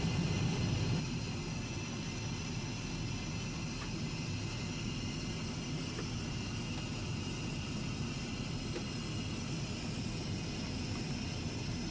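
Steady cabin noise of an Airbus A380 in cruise: a low rumble of engines and airflow with a hiss over it, dropping slightly in level about a second in and then holding even.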